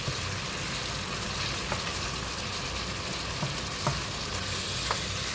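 Chicken fillet and courgette sizzling in a pan with a steady frying hiss, with a few faint clicks, a handful of times.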